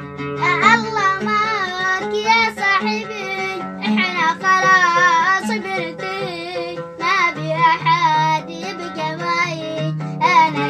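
A young child singing an Arabic song in long, ornamented notes with a wavering vibrato, over a plucked-string accompaniment.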